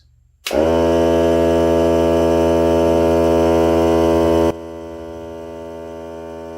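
Hart cordless, oil-free air compressor switching on about half a second in and running with a steady, loud hum on its break-in run. About four and a half seconds in it suddenly becomes much quieter and keeps running steadily.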